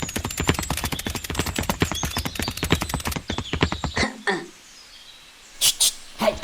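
Rapid, even clicking, about a dozen clicks a second, that stops about three seconds in; then two short gliding squeaks and two brief hissing bursts near the end.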